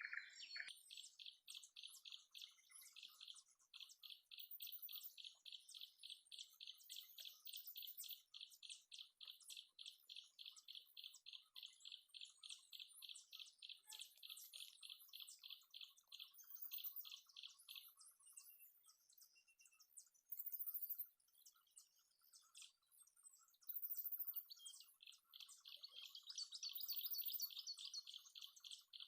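A bird calling in a long run of rapid, evenly repeated high chirps, faint; the run breaks off about halfway through and starts again near the end.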